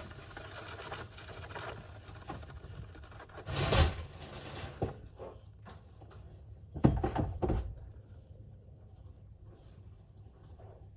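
Scratching and scrabbling, as of a hamster digging about in sand and bedding. There is a louder rustle about four seconds in and a few low knocks around seven seconds in.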